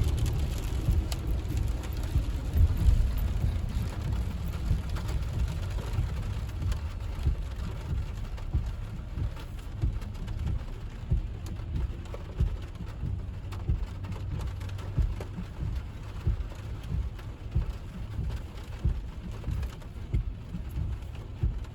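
Rain hitting a moving car's roof and windshield, heard from inside the cabin as many small ticks over the steady low rumble of the car on wet road.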